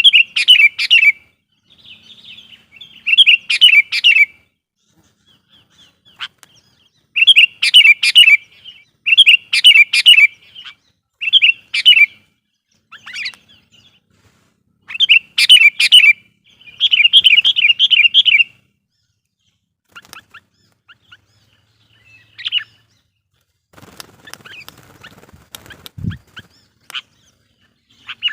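Sooty-headed bulbul singing loud, repeated chattering phrases of quick notes, a few times in the first eighteen seconds. The singing then thins to a few faint notes, and near the end there is a rustle with a short thud.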